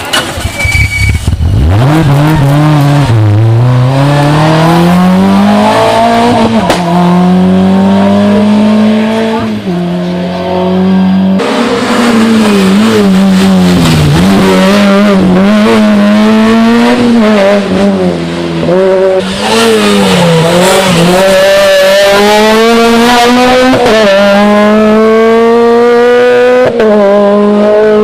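Rally car engines at full throttle, revving hard up through the gears, the pitch climbing and dropping back at each gear change, with some tyre squeal. The sound cuts abruptly about eleven seconds in to another car doing the same.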